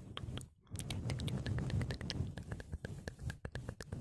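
Close-up ASMR mouth sounds: many quick wet clicks and smacks, with a low rumble for about a second and a half in the middle.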